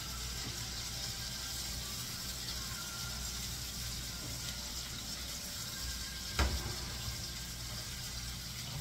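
Pork chops frying in butter in a skillet, sizzling steadily, with a single knock about six and a half seconds in.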